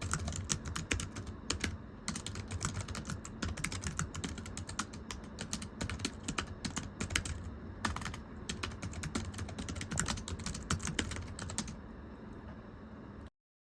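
Fast typing on a thin, low-profile computer keyboard: a dense, irregular run of light key clicks. The typing stops near the end, leaving a faint low hum for a moment before the sound cuts off completely.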